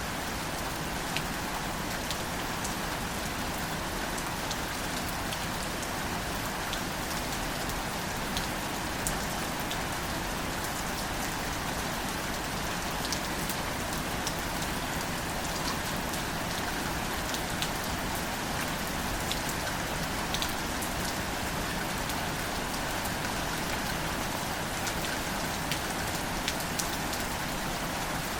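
Steady gentle rain falling on wildflowers and foliage, an even hiss with scattered individual drop ticks.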